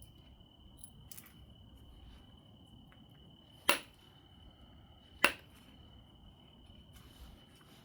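Two sharp, glassy knapping clicks about a second and a half apart as flakes come off an obsidian biface, over a faint steady high-pitched tone.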